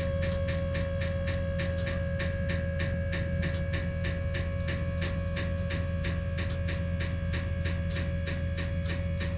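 A machine engine running steadily, with a low hum, a steady whine and a rapid regular ticking about five times a second.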